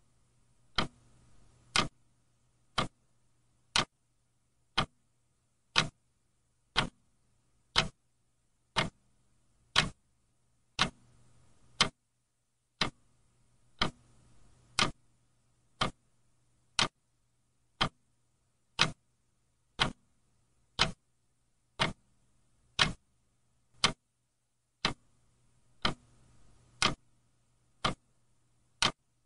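Clock ticking steadily, one sharp tick about every second, a few of them doubled.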